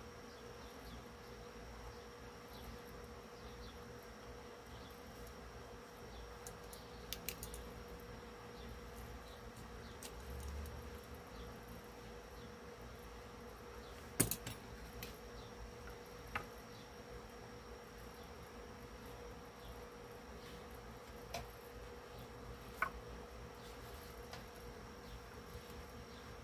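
A steady faint hum, with a few scattered small clicks and taps from handling the speaker grill and cabinet while lining up the mounting holes; the sharpest tap comes about halfway through.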